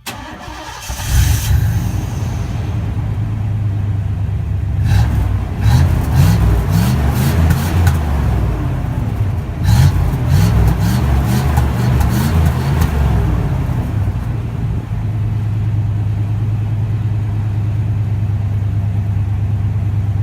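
Chevrolet Caprice 5.0-litre V8 engine firing up, then revved several times with rising and falling pitch and a few sharp cracks, then settling back to a steady idle.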